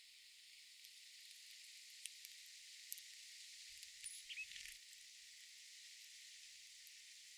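Faint steady hiss of outdoor garden ambience, with a few light ticks and a brief faint bird chirp about four seconds in.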